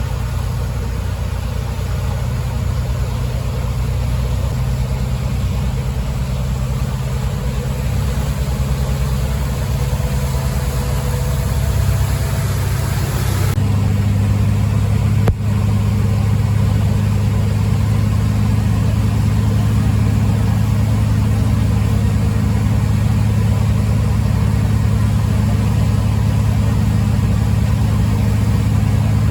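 A boat's engine running steadily under way, a loud low drone. About halfway through, its note shifts and it runs slightly louder.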